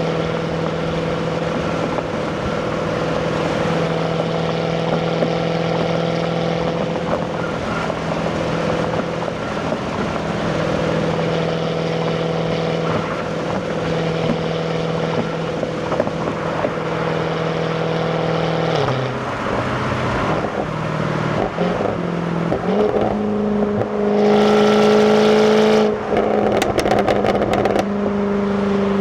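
Jaguar F-Type's supercharged 5.0-litre V8 on its stock exhaust, running at steady revs while cruising. About two-thirds of the way in the engine note drops and shifts, then it rises to a louder burst under acceleration near the end, followed by a rapid run of sharp crackles.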